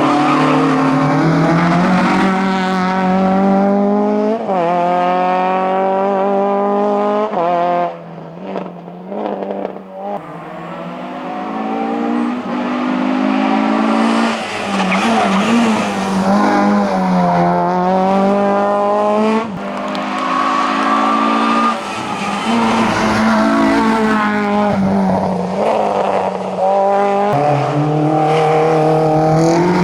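Hillclimb competition car's engine at full throttle. It revs hard, climbing in pitch and falling back at each gear change, with a brief lift and dip in loudness about eight to ten seconds in.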